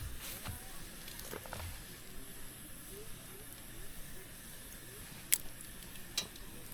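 Wood campfire burning with a steady hiss, a few soft knocks in the first two seconds and two sharp crackling pops about five and six seconds in.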